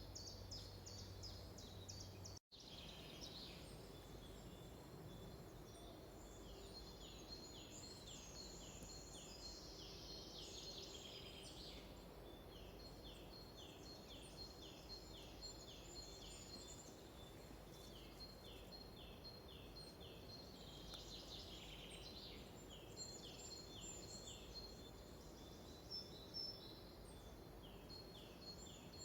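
Faint forest birdsong: a bird repeating a short falling chirp about twice a second in long runs, with other birds calling faintly over a low steady background hum. The sound drops out completely for a moment about two seconds in.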